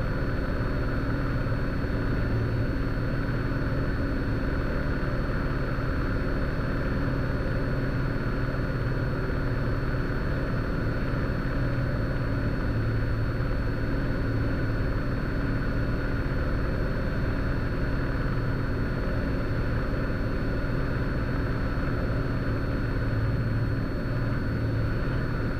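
Cessna Skylane's piston engine and propeller droning steadily in flight, heard inside the cockpit.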